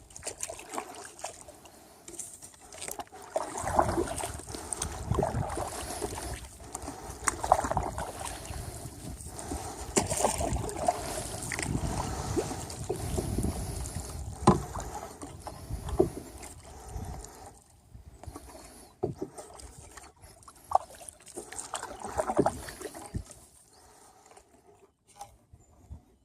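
Canoe being paddled on a river: paddle strokes and water sounds, with scattered knocks and a low rumble through the middle stretch that eases off near the end.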